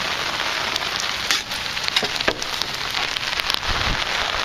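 Heavy rain pouring down steadily, a dense hiss with scattered sharp drop clicks, and a brief low rumble near the end.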